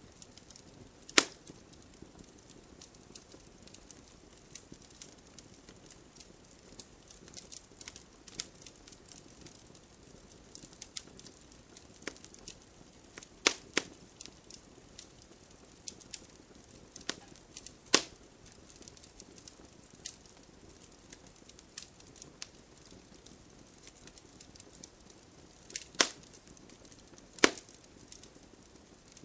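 Wood fire crackling with frequent small snaps and a handful of sharp, loud pops, over a faint steady hiss of rain.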